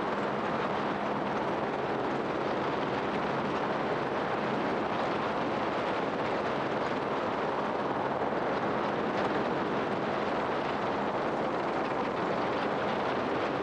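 Steady, unchanging rush of a vehicle in motion: engine hum under loud wind or air noise.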